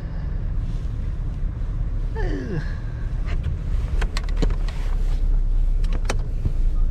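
Steady low rumble of a vehicle, with a short falling squeak about two seconds in and a handful of sharp clicks after it.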